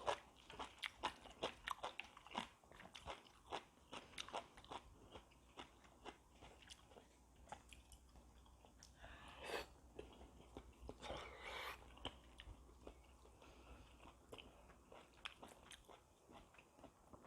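Close-miked chewing and mouth noises of someone eating oyster ramen: many small, sharp, wet clicks, with two short noisy stretches a little past halfway.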